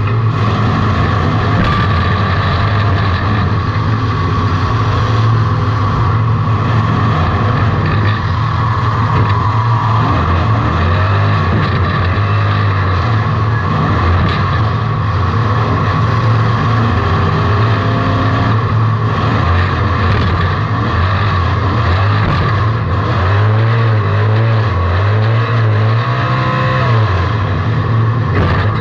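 Race car engine heard from inside the cockpit, running hard without a break, its revs rising and falling through the corners, with the most up-and-down swings near the end.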